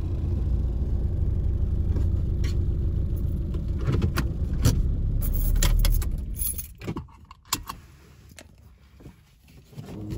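Plymouth Neon's four-cylinder engine idling, heard from inside the car, then switched off about six seconds in. A few light clicks and rattles follow in the quiet.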